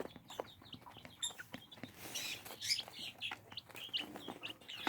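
Several young chicks peeping: short, high chirps scattered irregularly, with a few light ticks between them.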